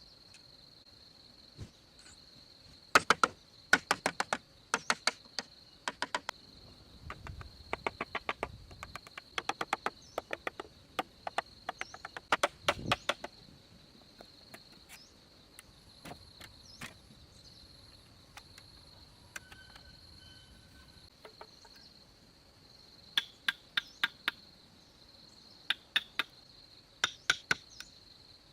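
A steady high-pitched insect drone, with bursts of sharp knocks from hand-tool strikes, several in quick succession, coming in clusters through the first half and again near the end.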